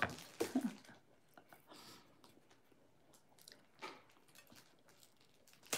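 A person biting into and chewing crisp food close to the microphone: faint, scattered crunches and clicks.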